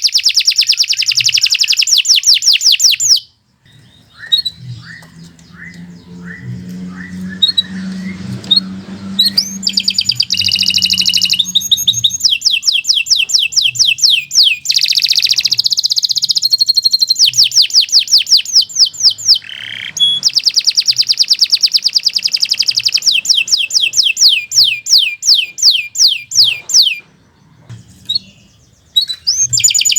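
Domestic canary singing long, fast trills of rapidly repeated high notes, with a softer twittering passage after a short pause about three seconds in, and another brief pause near the end.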